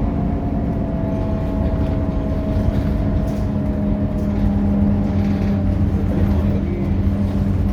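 Scania K230UB city bus's diesel engine and drivetrain running steadily, with a low hum and a fainter whine that slowly falls in pitch over the first few seconds.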